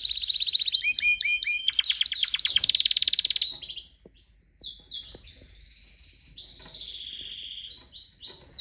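Canary singing: loud, very fast rolling trills of repeated notes for the first three seconds or so, then softer whistled glides and a long held note.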